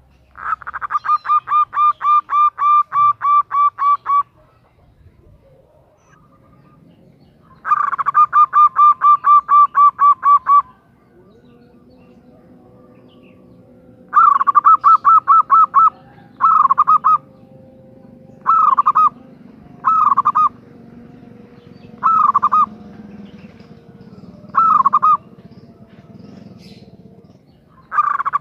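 Female zebra dove (perkutut) calling in runs of quick repeated notes, about four a second: two long runs of several seconds each, then a string of shorter bursts.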